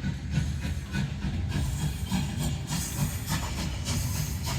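Steam train sound effect played over loudspeakers: a chugging locomotive with repeated hissing bursts of steam, the hiss growing stronger after about a second and a half.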